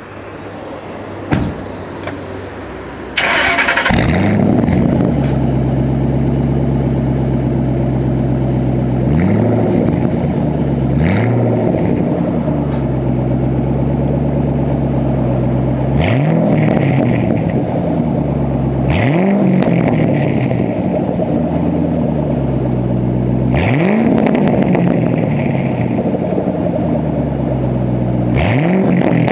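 2008 Ford Mustang GT's 4.6-litre V8, breathing through a Pypes axle-back exhaust with the mufflers deleted, fires up with a loud bark about three seconds in and settles into an idle. It is then blipped about six times, each rev rising quickly and falling back to idle.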